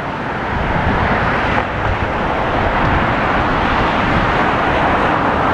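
Strong wind buffeting the camera microphone: loud, gusty rumbling noise.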